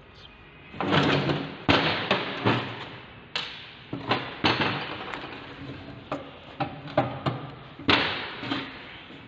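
Irregular metal clanks and knocks from steel brake parts being handled and fitted on an S-cam air drum brake: the brake shoes and the return spring. They start about a second in and keep coming until near the end.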